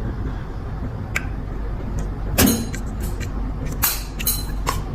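A few sharp metal clicks from a flip-top petrol lighter's lid and hinge being worked, over a steady low hum. The lid is being flipped to check the newly fitted hinge pin for play.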